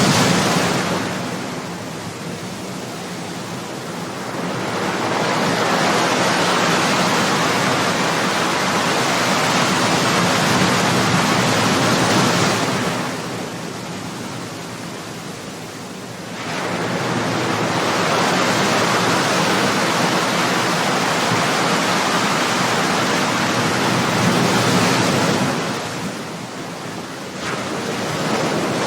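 Ocean waves breaking and washing on the shore, a steady rush that swells and eases in long cycles, dipping briefly three times, roughly every twelve seconds.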